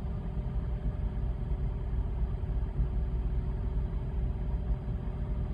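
Steady low rumble with a faint constant hum.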